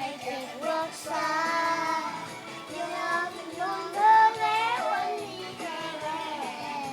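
A small child singing along to a pop song that plays with a steady beat.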